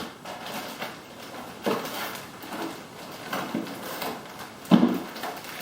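Packaging of a robotics kit being handled and pried open: a few scrapes and knocks, the loudest near the end.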